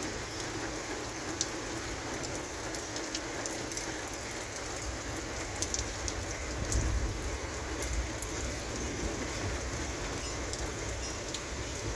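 Heavy thunderstorm rain falling steadily, with scattered sharp drop ticks. A low rumble swells briefly about halfway through.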